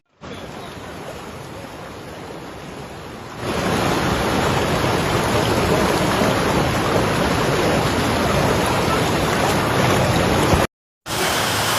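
Steady rushing of flowing water, quieter at first and then louder from about a third of the way in, with a brief dropout near the end where the footage cuts.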